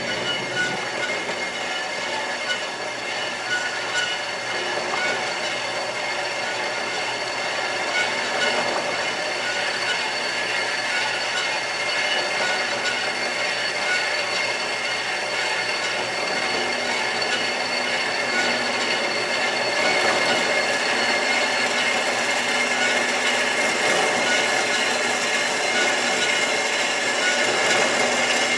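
Bandsaw running steadily, its blade cutting through an old worn steel tractor-implement link arm. The sound holds even, growing slightly louder over the cut.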